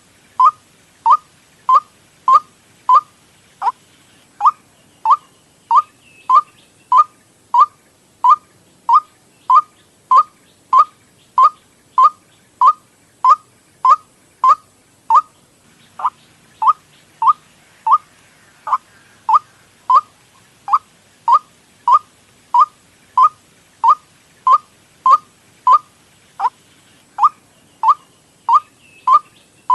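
White-breasted waterhen (ruak-ruak) calls played as a bird lure: one short note sliding down in pitch, repeated steadily about every 0.6 seconds, with a couple of brief pauses.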